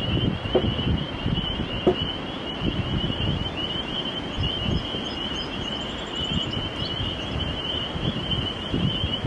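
Spring rainstorm outdoors: wind gusting against the microphone in uneven low rumbles, a few stronger gusts in the first two seconds. Over it runs a steady, high-pitched, rapidly pulsing trill.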